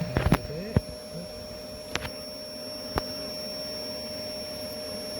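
Bee vacuum's motor running with a steady hum and a thin high whine, with a few sharp knocks and clicks of handling in the first second and again about two and three seconds in.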